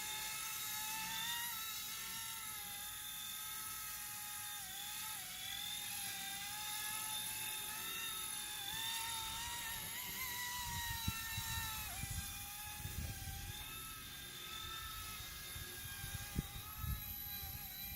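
Small electric remote-control helicopter hovering in flight, its motor and rotor giving a steady high whine whose pitch wavers and dips briefly as the throttle is worked. A few low thumps come in the second half.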